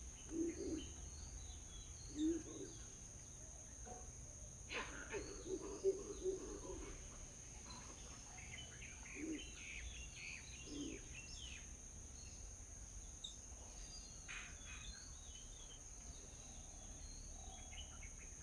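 Small birds chirping in short, scattered calls over a steady high-pitched insect drone, with a few brief lower sounds near the start and middle.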